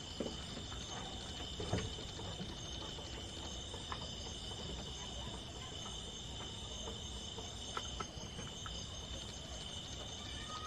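Steady high-pitched insect chorus, with a few light knocks and clicks scattered through it.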